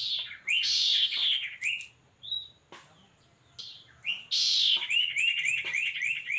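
Sirtu songbirds calling: harsh, buzzy bursts near the start and again about four seconds in, followed by a quick run of short rising chirps. These are the territorial calls used to lure the birds, from the decoy bird or MP3 playback.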